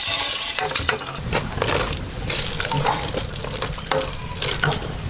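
Food sizzling in a wok while it is stir-fried, with a spatula stirring and clicking and scraping against the pan.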